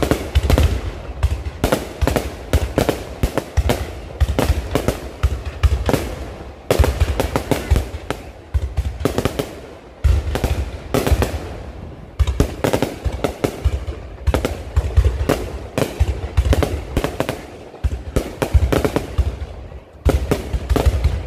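Low-altitude fireworks display firing a rapid, continuous volley of bangs and crackles, several a second, with heavy low booms under them.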